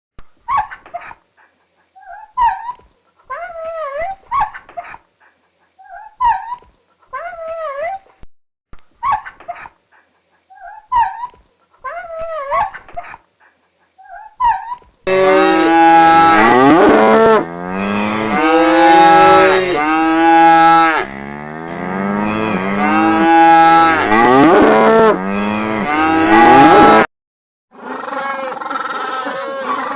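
Cattle mooing: loud, drawn-out cow calls in the second half, after a run of shorter, quieter animal calls about once a second.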